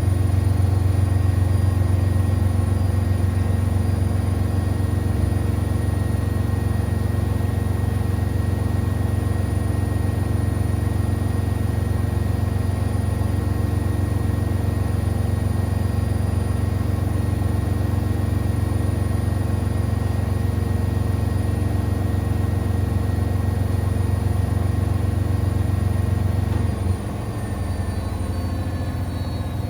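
Siemens Extraklasse XLS 140 A front-loading washing machine spinning at high speed, a steady loud hum with a high whine; about 27 s in it eases and the whine starts falling in pitch as the drum begins to slow.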